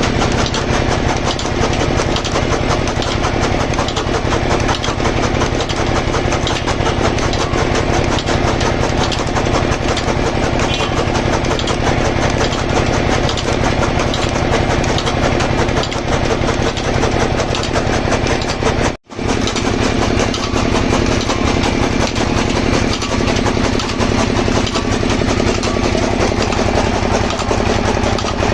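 Engine pumpset running steadily, driving a chaff cutter machine, with a fast even beat. The sound cuts out for an instant about two-thirds of the way through, then carries on as before.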